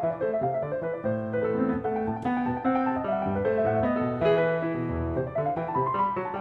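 Background music: a calm solo piano piece with a steady flow of notes.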